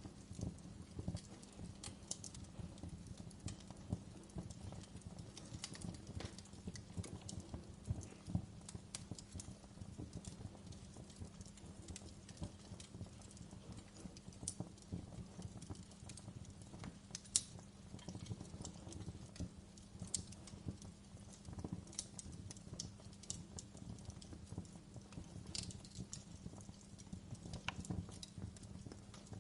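Wood fire crackling in a fireplace: a steady run of irregular pops and snaps from burning logs over a low, steady rumble.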